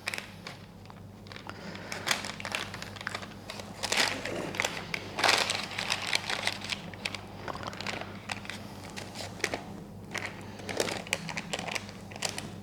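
A spoon or spatula scraping and pushing thick chocolate brownie batter around a baking tin to spread it evenly, making a string of short, uneven scrapes and rustles.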